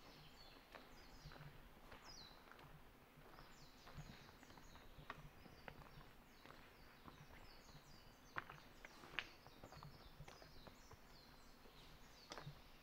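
Faint forest birdsong: many short, high chirps that sweep downward, scattered throughout, over the soft regular crunch of footsteps on a gravel trail.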